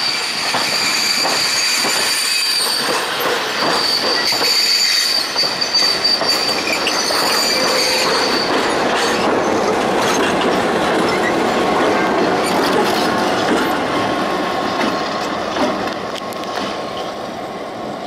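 Passenger railroad cars rolling past, their wheels clicking over the rail joints, with a high, steady wheel squeal through the first half. The rolling rumble eases off slightly near the end.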